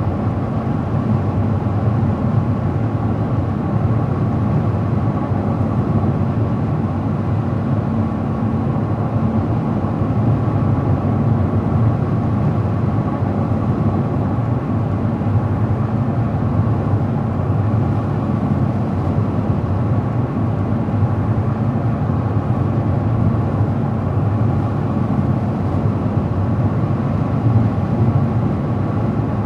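Steady road noise of a car driving at an even speed: a constant tyre and engine rumble with a faint steady whine, no change in pace.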